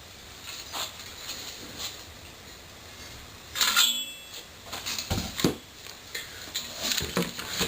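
Scattered handling noises as a new exhaust header and its packaging are moved about: light clicks and rustles, a louder clatter with a brief metallic ring a little past halfway, and a dull thump about five seconds in.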